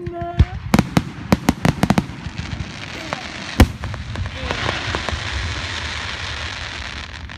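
Fireworks going off: a rapid string of sharp bangs in the first two seconds, a single loud bang about three and a half seconds in, then a long crackling hiss of crackle shells.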